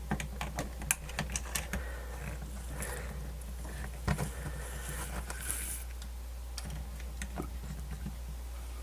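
Scattered small clicks and taps of small radio parts being handled and pushed into place, over a steady low hum.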